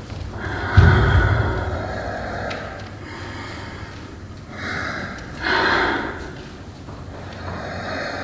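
Heavy breathing in loud, drawn-out gasps and exhales, with a single low thump about a second in.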